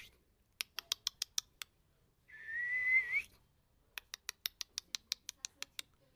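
Pet parrot giving a short rising whistle about a second long, between two runs of quick sharp clicks at about eight a second.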